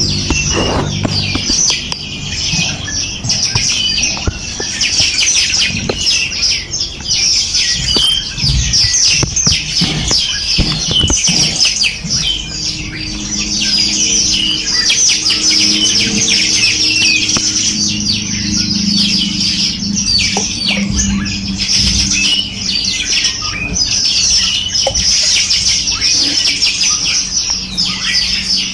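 A dense chorus of many small songbirds chirping and trilling continuously, with rapid high-pitched notes overlapping throughout.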